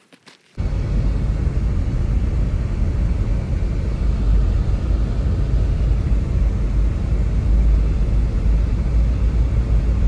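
Blizzard wind buffeting the microphone: a loud, steady, deep rumbling rush that starts suddenly about half a second in.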